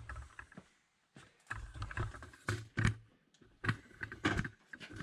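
Camera handling noise: irregular knocks and low rumbles as the camera is carried and repositioned.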